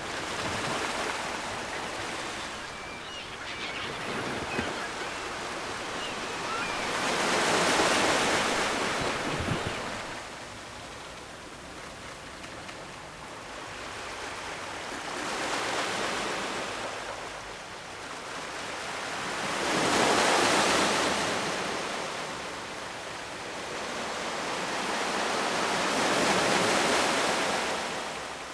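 Ocean surf breaking and washing on the shore, its noisy hiss swelling and fading in four slow waves.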